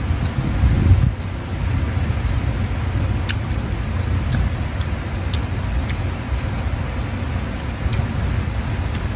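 A steady low outdoor rumble, with a person chewing food and occasional short mouth clicks over it.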